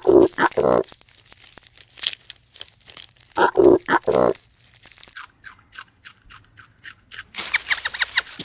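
Cattle calling twice in short, broken calls, then a run of crisp crunching and tearing noises, about three to four a second and denser near the end, like a cow pulling and chewing grass.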